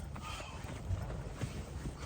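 Someone moving about inside a rooftop tent: a few dull knocks and some rustling over a low rumble.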